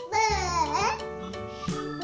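A child's voice sliding up and down in pitch for about a second, over background children's music with steady held notes.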